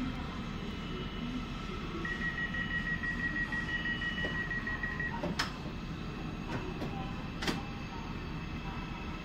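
Railway station ambience with the steady low rumble of a train on a far track. A single high, steady tone runs for about three seconds, then come four sharp clicks in the second half.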